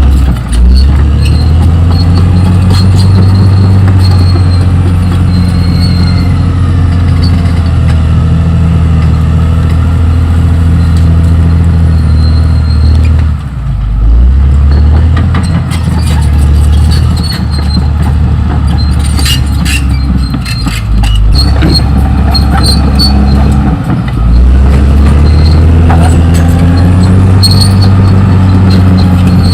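Caterpillar D6R XL crawler bulldozer's diesel engine running hard as it works, its pitch sagging and recovering briefly a few times as the load changes. Sharp metallic clanks come through in the middle of the stretch.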